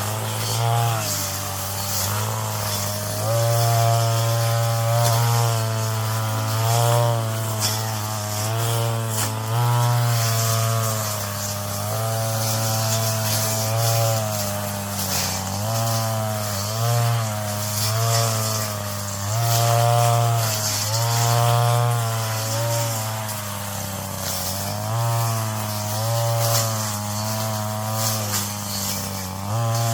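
Brush cutter engine running at high speed, its pitch dipping and picking up again every second or two as the blade works through weeds, with a steady high hiss over it.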